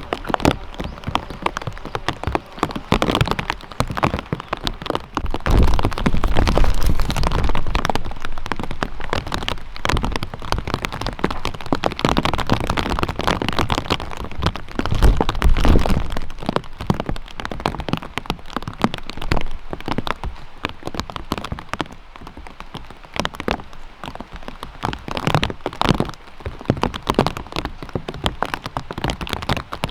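Steady rain, with many separate drops ticking close by and low rumbles swelling about six and fifteen seconds in.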